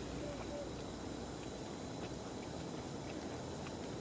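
Wood campfire ticking and crackling faintly a few times over a steady low background hiss.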